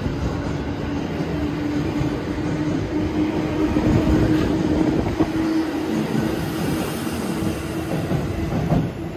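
651 series 1000-subseries electric multiple unit pulling out of a station and passing close by as it picks up speed. The wheels rumble on the rail, with a steady low hum over them and a few knocks as the cars roll by.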